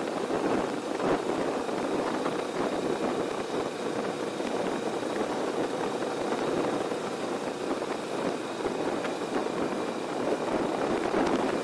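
Heavy wind noise buffeting the 360 camera's microphone on a moving Kawasaki Vulcan S, with the bike's 649 cc parallel-twin engine running steadily underneath.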